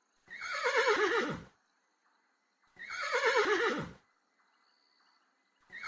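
Horse whinnying: two full whinnies about two and a half seconds apart, each starting high and quavering down in pitch, with a third one starting at the very end.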